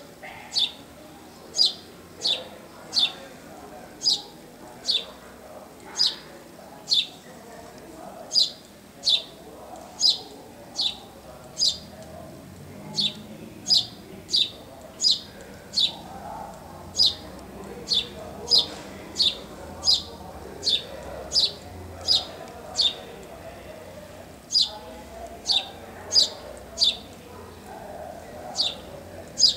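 A bird repeating a short, high chirp that falls sharply in pitch, a little faster than once a second, with a few brief pauses.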